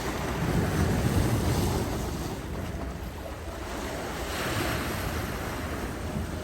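Strong waves washing in, with wind buffeting the microphone as a steady low rumble; the wash swells about a second in and again around four and a half seconds in.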